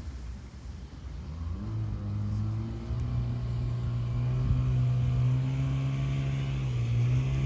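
An engine or motor running with a low steady hum, its pitch stepping up twice early on and then holding.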